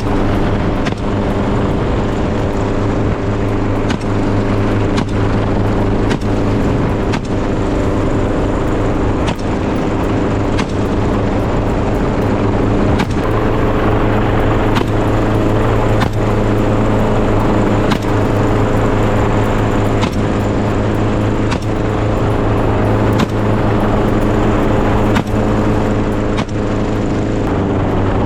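Helicopter running steadily overhead, with its even engine and rotor drone, and sharp cracks repeating about once a second over it.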